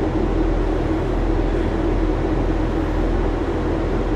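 Heavy diesel engine idling steadily, a constant low drone.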